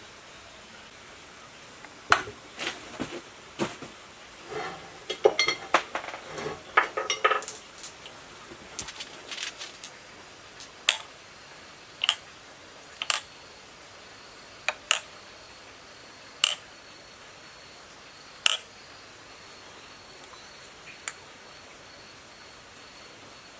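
Metal parts and tools clinking as they are handled and set down: a quick run of clinks and rattles, then single sharp clinks every second or two that stop near the end.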